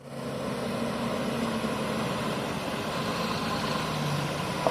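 Heavy diesel engine of a backhoe loader or tipper truck idling steadily, with one short click right at the end.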